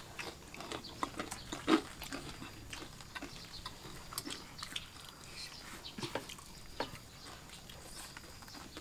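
People chewing and smacking their lips while eating fried lamtoro (petai cina) fritters and rice by hand, with scattered faint clicks and mouth smacks.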